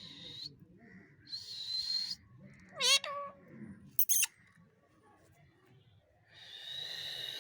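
Pet parrot calling: a few harsh, noisy screeches, a loud short wavering call about three seconds in, and a sharp high squawk about a second later.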